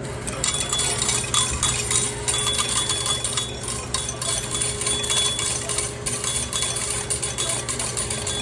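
Rapid metallic clinking and jingling, with a faint high tone coming and going.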